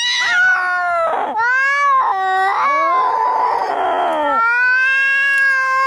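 Angry cats caterwauling in long, wavering yowls that rise and fall in pitch, with a rougher, raspy stretch about three seconds in: the sound of a cat fight.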